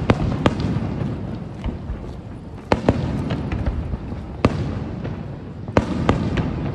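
Aerial fireworks shells bursting at a distance: about half a dozen sharp bangs at irregular intervals over a continuous low rumble.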